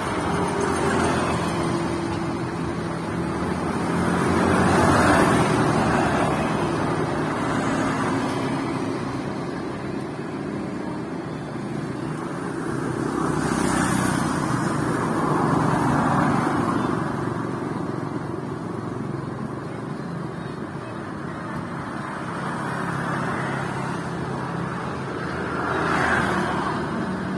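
Motorcycle engine running steadily while riding in traffic, with road noise and other vehicles swelling louder as they pass several times.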